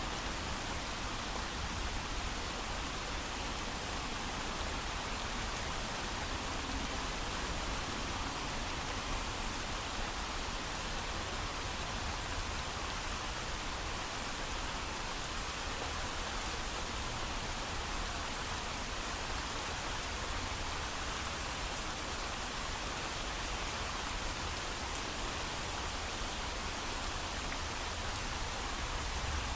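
Steady heavy rainfall, a dense even hiss of countless drops with no thunder.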